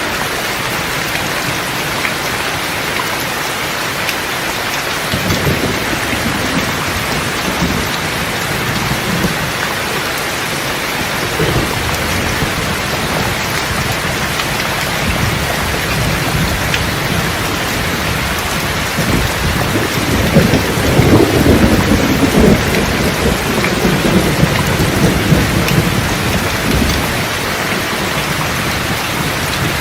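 Steady rain with rolling thunder: brief low rumbles about five and eleven seconds in, then a longer, louder rumble of thunder starting about twenty seconds in and lasting several seconds.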